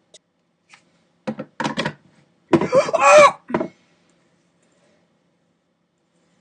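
A quick run of clattering knocks, like small objects hitting a hard work surface, followed by a loud startled 'Oh!' from a woman, which is the loudest sound; something has apparently gone wrong with the piece being repositioned.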